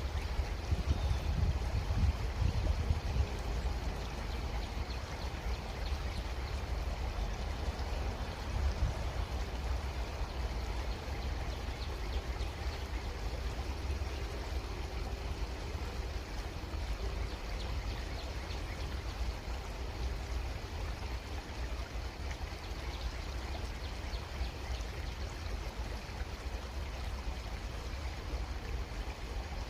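A creek running steadily, with a low rumble that swells in the first few seconds and again about nine seconds in.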